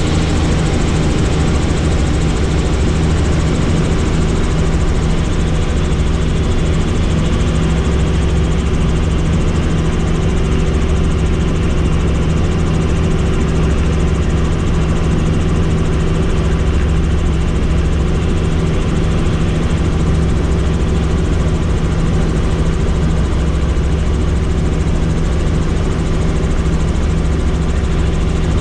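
Helicopter in flight, heard from inside the cabin: steady turbine and rotor sound with a deep, even hum and a broad rushing noise, unchanging throughout.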